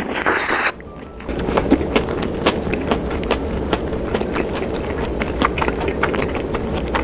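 A spoonful of sauce-soaked rice goes into the mouth with a short, loud noise. Close-miked chewing follows, with many small wet mouth clicks.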